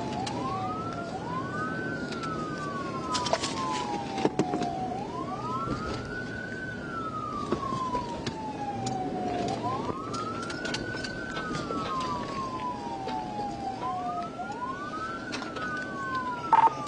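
Two police sirens on wail, slightly out of step, each sweeping quickly up and then slowly down about every four and a half seconds, over steady road noise from a pursuing patrol car.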